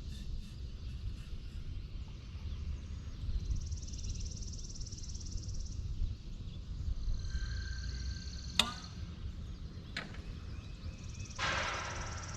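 Outdoor evening ambience: high-pitched insect buzzing that swells and fades in several long stretches over a low wind rumble. A sharp click stands out about two-thirds through, with a fainter one soon after and a short rustling burst near the end.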